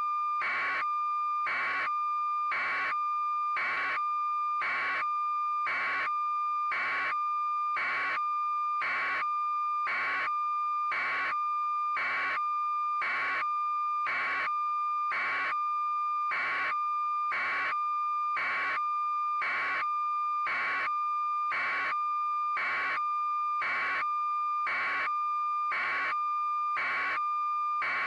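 A steady electronic tone with a short beep pulsing about once a second, unchanging and perfectly regular throughout.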